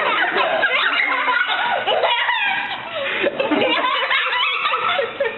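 People laughing and giggling.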